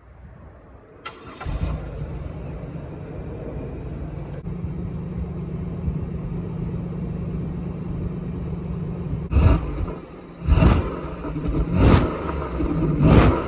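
Buick Park Avenue's 3800 V6 with the muffler deleted, cold-started: it cranks and catches about a second and a half in, then runs steadily. Near the end it is revved four times in quick blips.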